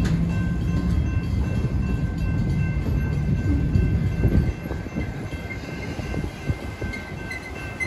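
Heavily loaded freight train of covered hopper cars rolling slowly past, its wheels rumbling over the rails. About halfway through the rumble eases and a few sharp knocks and clanks from the passing cars come through.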